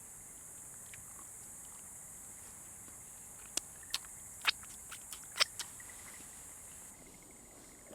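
Steady high-pitched chirring of insects, with a quick run of about eight sharp cracks or snaps in the middle.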